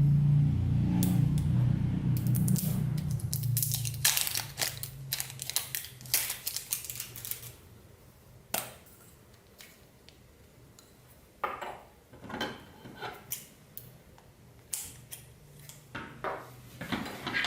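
Clear slime mixed with plastic beads being squeezed and worked, giving quick crackling clicks and pops in clusters, densest a few seconds in and sparser later. A low hum fades out over the first few seconds.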